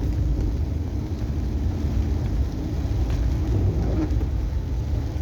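Steady low rumble of road and engine noise inside a moving car's cabin, under an even hiss of heavy rain on the car.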